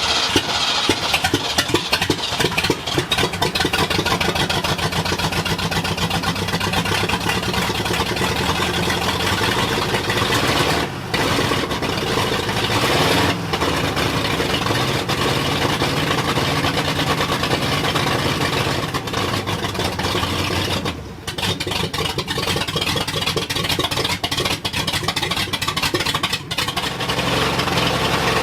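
Freshly rebuilt Ford 351M V8 running just after its first start, kept at raised, uneven revs to begin break-in, with the engine speed dipping and rising a few times.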